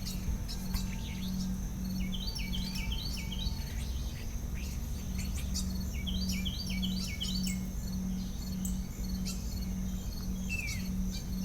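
Outdoor night insect chorus: crickets trilling steadily and high, with repeated groups of short chirps, over a low hum that pulses about twice a second.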